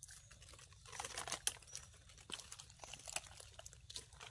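Faint, irregular crackling and rustling of dry forest-floor leaf litter and twigs, a scatter of short sharp clicks, as someone handles the ground while picking termite mushrooms.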